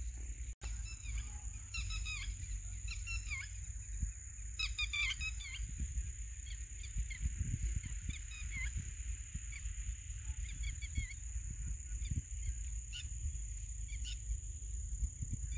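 Birds calling in short repeated runs of notes over a steady high insect drone, with a low wind rumble on the microphone.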